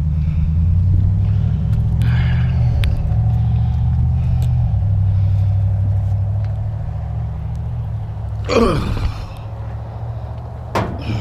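Pickup truck engine running with a steady low rumble that eases off about two-thirds through, with two short, sharp sounds near the end.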